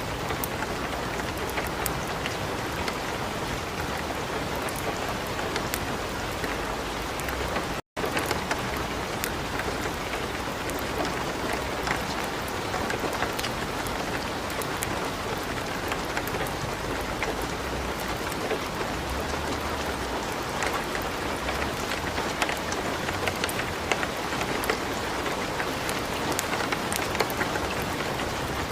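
Steady light rain hiss mixed with frequent small, sharp crackles from a wood fire in a fireplace. The sound cuts out for an instant about eight seconds in.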